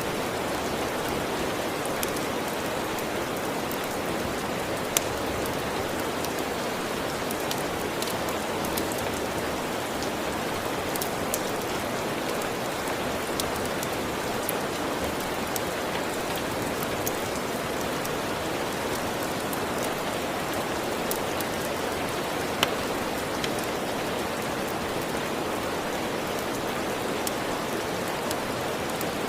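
Steady, even rain with scattered sharp clicks and pops throughout, two of them louder, about five seconds in and near the end.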